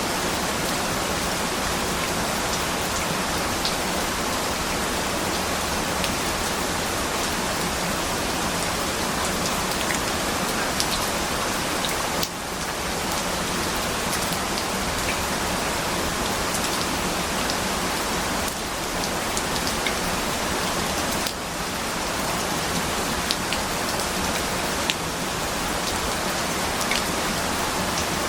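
Steady, dense rain falling, with scattered drop ticks. The level dips briefly a few times.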